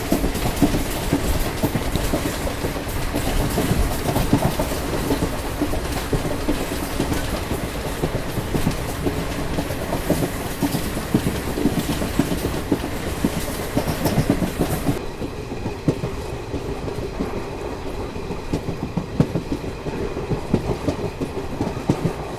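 Moving Garib Rath Express passenger coach heard from its open door: a steady running rumble with rapid clicking and rattling of the wheels on the track, under a rush of air. The hiss of rushing air drops away sharply about fifteen seconds in, leaving the rumble and wheel clatter.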